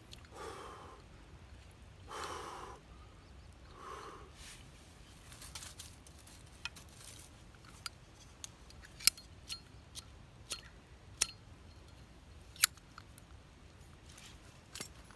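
Campfire wood in a fire pit crackling, with irregular sharp pops, the loudest around the middle and later part. Near the start come three short, hoarse sounds about two seconds apart.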